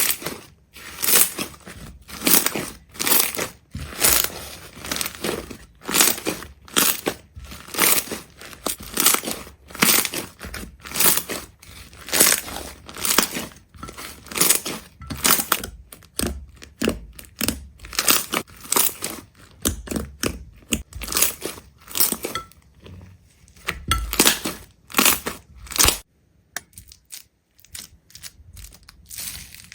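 Repeated crisp crunching and crackling, about one or two crunches a second, becoming fainter and sparser about 26 seconds in.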